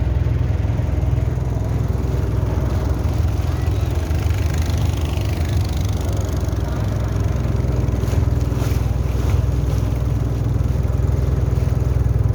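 Motorboat engine running steadily under way, a constant low drone, with a few brief sharp sounds about eight to nine seconds in.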